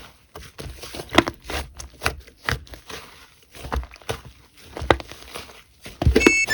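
Slime being squished and worked by hand, giving irregular sticky clicks and pops. Near the end a few short electronic tones sound.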